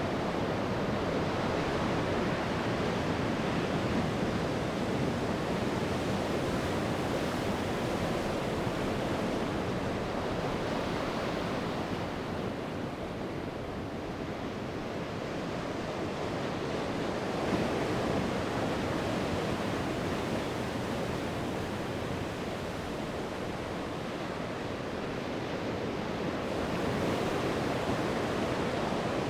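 Sea waves breaking and washing on the shore, a continuous rushing surf that swells and eases slowly, with some wind on the microphone.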